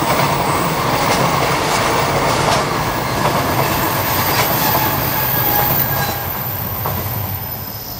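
Container wagons of a freight train rolling past at speed, steel wheels clicking over the rail joints. The sound drops off about six seconds in as the last wagon goes by.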